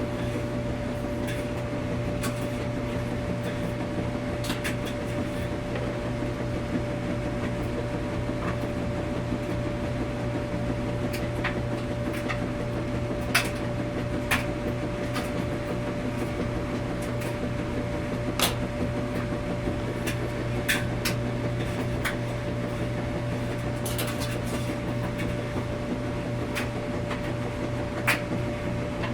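Washing machine running with a steady low hum and a constant tone, with sharp clicks every second or two.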